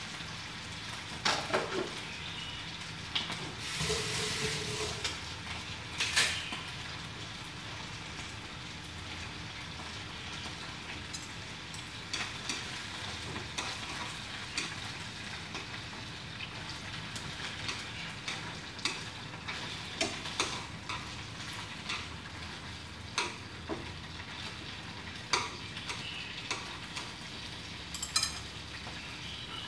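Chicken wings frying in oil in a pan, a steady low sizzle. Scattered sharp clicks and clinks of a utensil against the pan and dishes mark the pieces being turned, with a brief louder sizzle about four seconds in.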